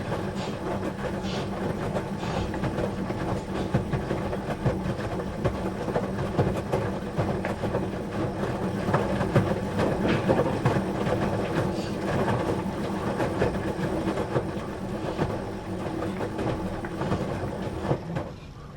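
A steady low mechanical hum with a continuous rattling clatter over it, which stops just before the end.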